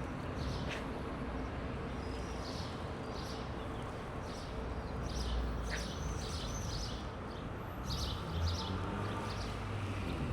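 Small birds chirping, many short high chirps in quick succession, over a steady low outdoor rumble.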